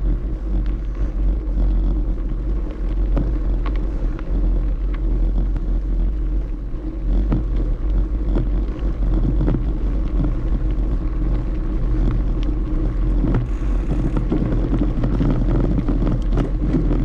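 Steady low rumble of wind on the microphone and tyre noise while riding a bicycle along a paved greenway, with a few light clicks and rattles.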